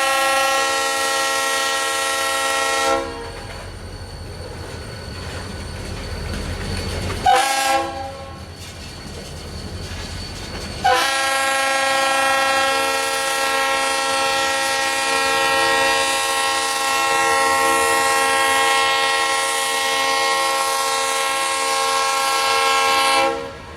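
Freight locomotive air horn sounding a chord: a long blast that ends about three seconds in, a short blast around seven seconds, then a long blast held for about twelve seconds, the end of the long-long-short-long grade-crossing signal. A low rumble of the passing train is heard in the gaps between blasts.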